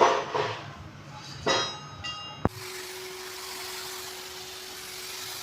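A few metal-on-metal clinks and taps, each ringing briefly, then a sharp click about two and a half seconds in, after which a steady hiss with a low hum sets in abruptly.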